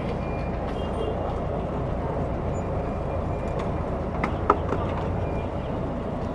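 Steady rumble of city street traffic, with a few sharp clacks a little past the middle, the loudest about four and a half seconds in.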